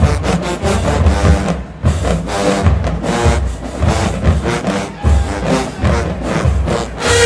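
Marching band playing, with brass over a steady beat of heavy low drum hits, about two a second.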